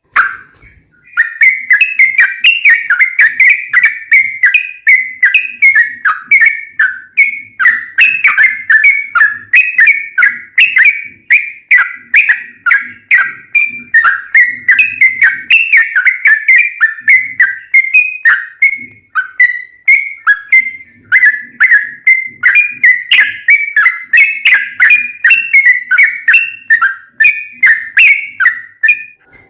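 Yellow-vented bulbul (trucukan) singing a long, fast run of bright chattering whistled notes, the rapid repeated 'ropel' song that keepers use as a lure to set other bulbuls calling. The notes come several to a second with only a couple of short breaks.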